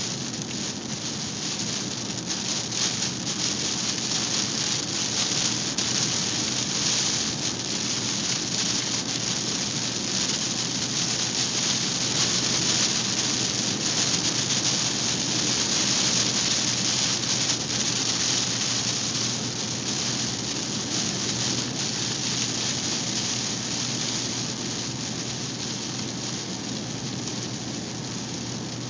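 Steady heavy rain falling, a dense even hiss.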